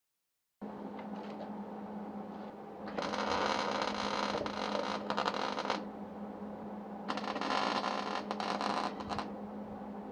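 A power tool runs in two bursts, the first about three seconds long and the second about two, over a steady low hum.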